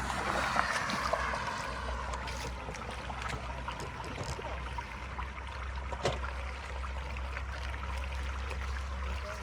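Water running and trickling steadily, with scattered small clicks and ticks.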